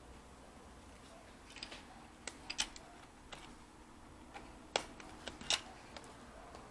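Irregular light clicks and taps from handling a Lenovo B575 laptop's plastic case and parts during disassembly, about ten in all, the sharpest a little past the middle.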